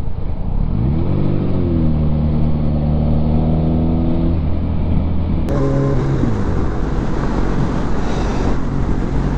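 Motorcycle engine accelerating: its revs climb about a second in and hold steady, then after an abrupt break about halfway through they fall away, over a steady rushing noise.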